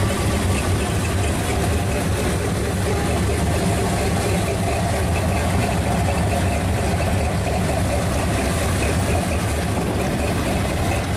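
Hot-rodded Chevy II Nova station wagon's engine running steadily near idle as the car rolls slowly away, with no revving.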